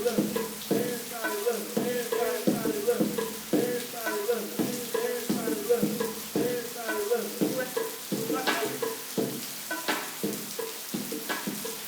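Steady rain with a crackling hiss. Under it runs a muffled, rhythmic beat with pitched notes, fading slightly near the end.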